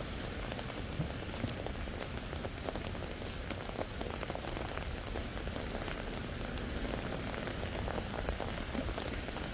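Steady rain falling, with many separate drops ticking close by on an umbrella overhead.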